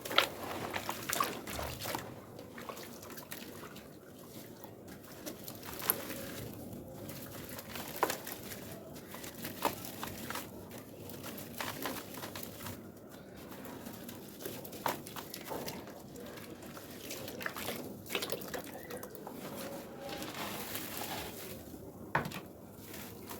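Wet red sand paste being dipped into and squished, a continuous wet squelching with scattered sharp crackles.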